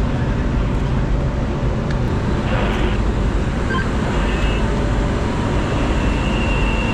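Steady low rumble of a train standing at a railway station, with a faint thin high tone near the end.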